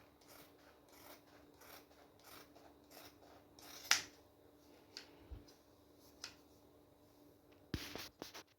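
Scissors cutting through vinyl sheet: a run of quiet snips, about two a second at first and then sparser, with a sharper snip about four seconds in and a few more near the end. A faint steady hum lies underneath.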